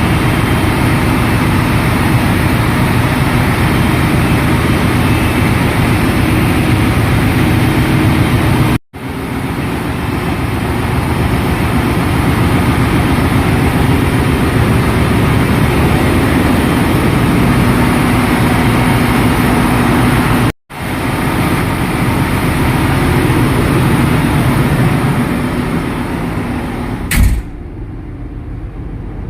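Loud, steady running noise of ship's engine-room machinery, a constant drone with a dense hiss over it. It breaks off briefly twice, and near the end a sharp click is followed by a quieter level.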